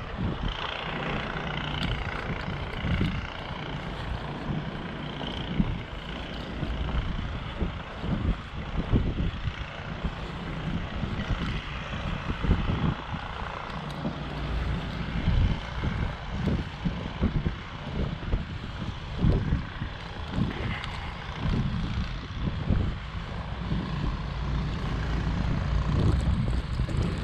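An engine running steadily, with wind buffeting the microphone in gusts.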